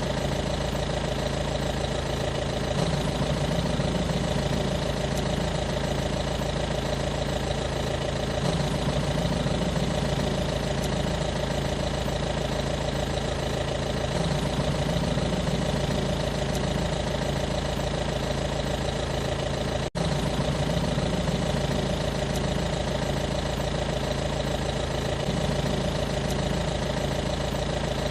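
An engine idling steadily, with an even hum and a slow swell every few seconds, and one brief dropout about twenty seconds in.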